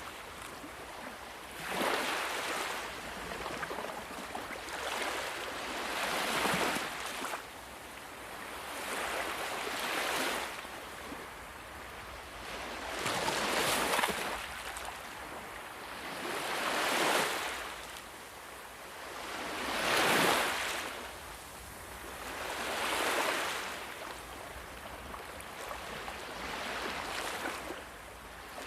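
Sea waves breaking and washing in, a surge of surf every three to four seconds over a steady wash of water.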